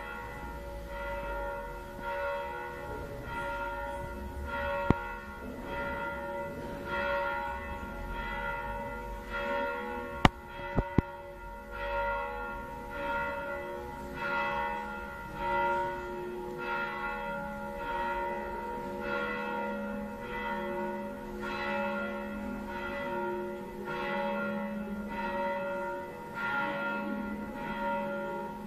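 Church bells pealing, with the strikes coming about once a second and ringing on between them. A few sharp cracks cut through, once about five seconds in and three times around ten to eleven seconds.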